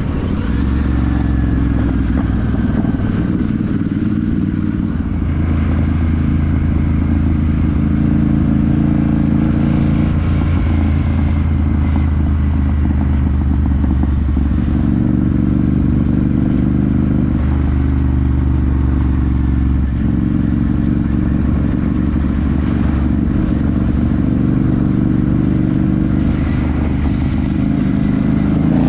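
Royal Enfield Super Meteor 650's 648 cc parallel-twin engine and exhaust running while the motorcycle is ridden. The engine note is steady for stretches and shifts in pitch every few seconds as the throttle and revs change.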